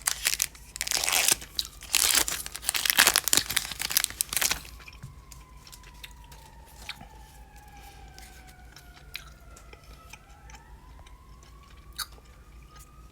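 Foil booster pack wrapper being crinkled and torn open in loud crackling bursts for the first four and a half seconds. After that it goes quiet, with scattered small clicks of cards being handled and a faint tone that slides slowly down and then back up.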